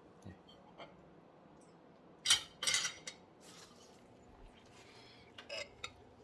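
A utensil scraping and clinking inside an almond butter jar, digging out what is left, in a few short strokes with the loudest a little over two seconds in.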